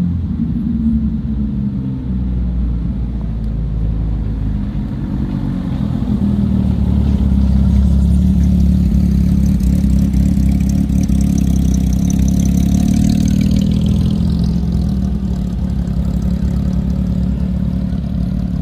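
Car engine running at low revs close by, a steady deep rumble that grows louder about six seconds in and then holds.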